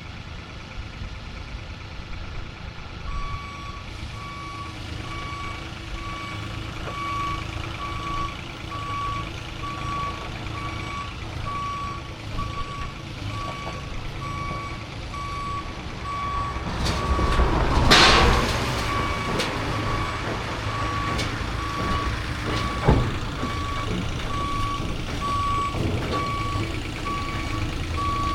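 A heavy-equipment backup alarm beeps evenly and steadily from about three seconds in, over the rumble of a running engine. About eighteen seconds in comes a loud burst of scraping, crunching noise.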